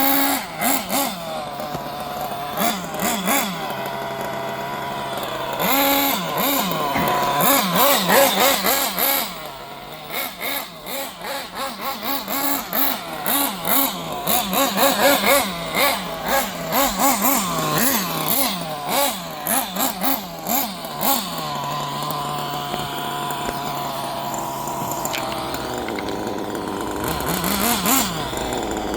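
Small nitro glow engine of a Kyosho RC engine buggy running: idling steadily, then revved in quick repeated throttle blips through the middle, then settling back to a steady idle.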